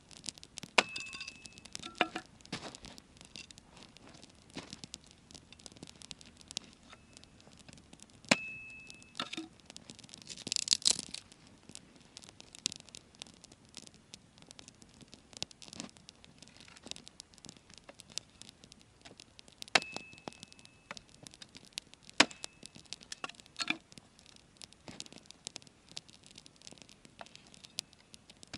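Wood campfire crackling with irregular small pops and snaps, and now and then a louder knock that rings briefly.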